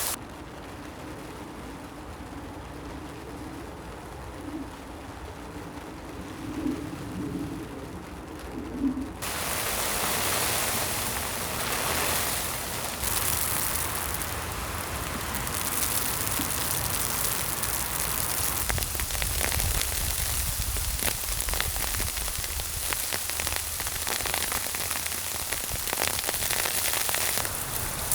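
Rain pattering steadily on a tent. For about the first nine seconds it is quieter and muffled, with a faint low wavering tone; then the fuller patter takes over.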